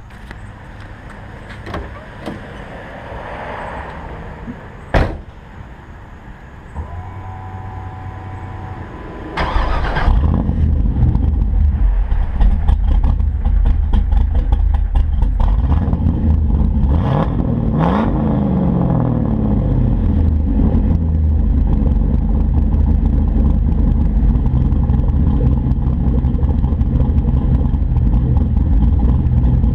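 A 5.3-litre LS V8 with a Trick Flow cam, breathing through stock '98 Camaro manifolds into a 4-inch Mufflex cat-back and single Spintech muffler, is cranked and started about ten seconds in, after a sharp click and a short steady tone. It then idles loudly and steadily, with one quick rev and drop midway.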